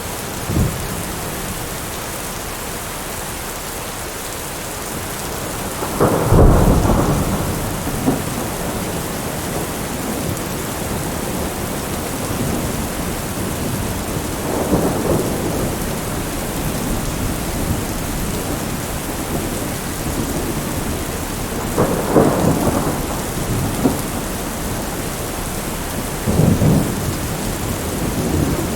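Heavy rain beating steadily on a window, with thunder rumbling several times over it, the loudest rumble about six seconds in and others around fifteen, twenty-two and twenty-six seconds.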